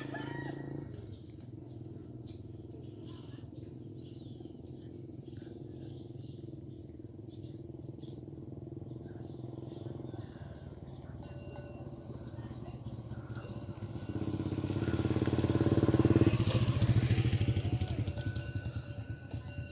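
A motorcycle engine running steadily, growing louder as it comes near. It is loudest about three-quarters of the way through, then fades as it passes.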